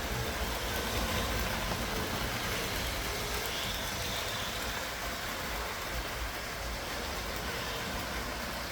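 LEGO 9V electric trains running on plastic track: a steady motor hum and wheel rumble.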